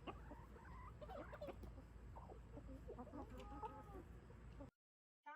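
Chickens clucking softly, a scatter of short calls, while being hand-fed. The sound cuts off abruptly near the end.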